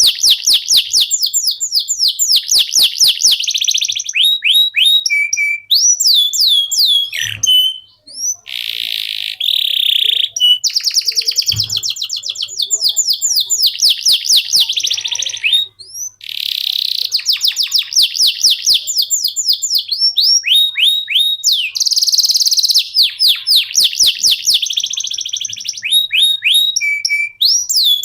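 Male canary singing a long, loud song of fast rolling trills and repeated downward-sweeping notes, with a few short breaks between phrases.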